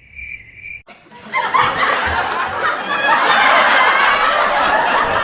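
A steady high insect trill for under a second, cut off abruptly, followed by loud, dense laughter with music.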